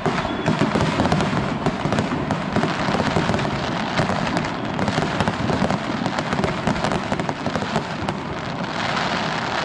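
Fireworks display at its height: a dense, continuous crackle of many small bursts over low booms, getting louder about half a second in.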